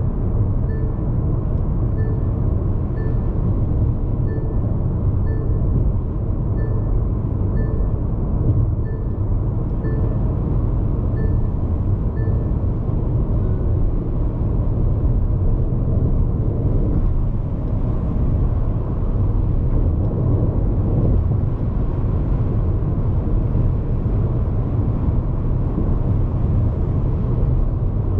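Steady road noise inside the cabin of a Hyundai IONIQ 5 AWD electric car at expressway speed: a low tyre rumble with wind noise and no engine sound. A faint electronic tick repeats about once a second, stopping about thirteen seconds in.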